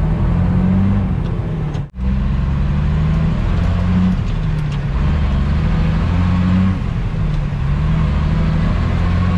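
Truck engine running under way, its pitch shifting up and down as the revs change. The sound drops out abruptly for a moment about two seconds in.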